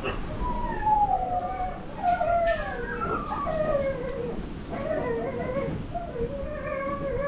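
Several huskies howling together in a chorus: long, overlapping, wavering howls, many sliding down in pitch.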